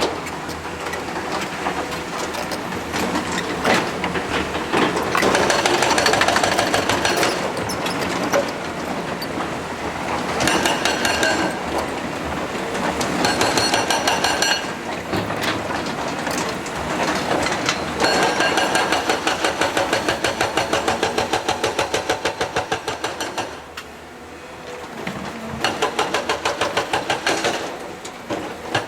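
Heavy construction machinery running, with several bursts of rapid, evenly spaced mechanical hammering strokes, the longest lasting about five seconds.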